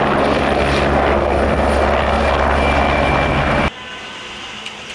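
Army helicopter sound: a steady rotor and engine hum that cuts off suddenly near the end.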